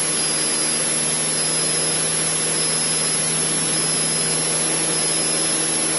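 Cessna 152's four-cylinder Lycoming engine and propeller running steadily at cruise power, heard inside the cabin as an even drone with airflow hiss and a thin steady high whine.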